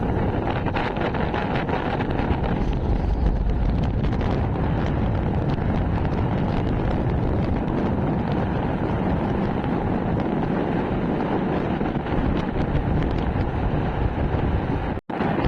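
Wind buffeting the microphone of a moving motorcycle, a steady rumbling rush with engine and road noise underneath. The sound drops out abruptly for a moment near the end.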